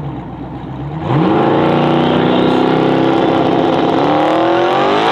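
Twin-turbo 4x4 truck engine idling, then brought up sharply about a second in and held at a flat, steady rpm on the two-step launch limiter for about three seconds. Near the end the pitch climbs as the truck launches and accelerates.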